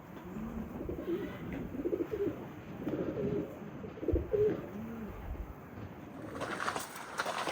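Pigeons cooing: a run of low coos, each rising and falling in pitch. Near the end a louder rush of noise comes in over them.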